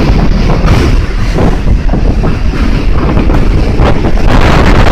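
Typhoon wind blowing hard and buffeting the microphone with a loud, rumbling noise that gusts up near the end.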